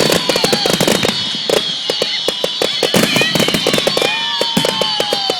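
Fireworks going off in rapid succession: a dense run of sharp pops and bangs, several a second, with a falling whistle near the end.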